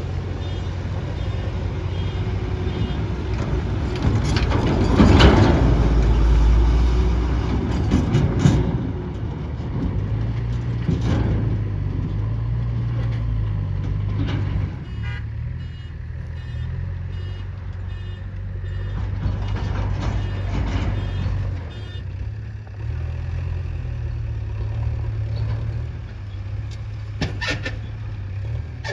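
JCB Eco Excellence backhoe loader's diesel engine running under working load, growing louder for a few seconds about four to nine seconds in, with several knocks and clatters. Short runs of reversing beeps sound near the start and again in the middle.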